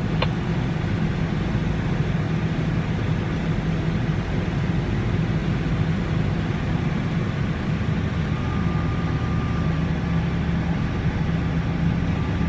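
Farm tractor engine running steadily under load, a low even drone, with a faint thin whine joining about eight seconds in.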